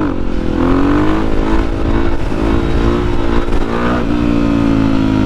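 Yamaha WR450F's 450cc single-cylinder four-stroke engine running under way, its pitch rising a little about half a second in and again near the end, then holding steady, with wind rumble on the microphone.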